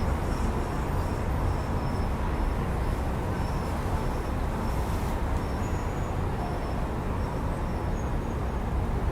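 Steady city traffic noise: a continuous low rumble of passing cars and buses, with faint short high-pitched squeaks or whistles scattered through it.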